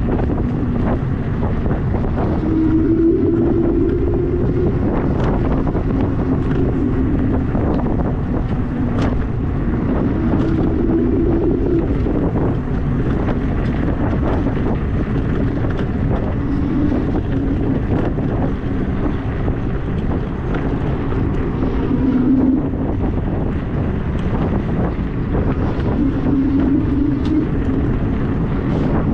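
Wind buffeting the microphone during an e-bike ride, with a hum that steps up and down in pitch and scattered knocks and rattles throughout.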